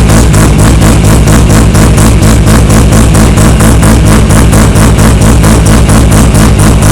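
Knight Sports RX-8 race car's rotary engine idling loudly while warming up, with a steady lumpy pulse of about five or six beats a second.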